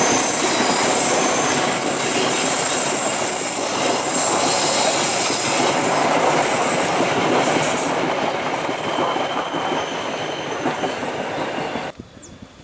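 Passenger train coaches rolling past on a curve: steady wheel-on-rail rumble and clatter with a thin, high-pitched squeal from the wheels. The sound cuts off suddenly near the end, leaving faint outdoor background.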